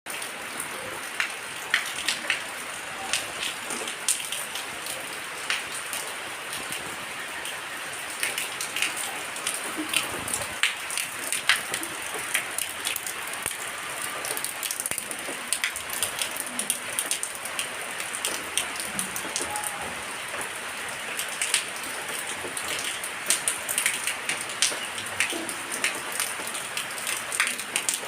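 Rain falling steadily, with frequent sharp drops pattering on a surface.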